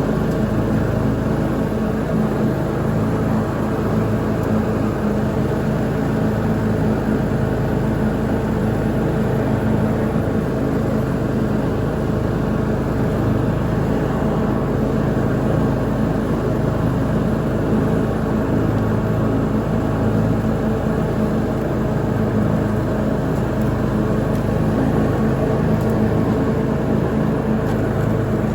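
Lawn mower engine running steadily at constant speed while mowing.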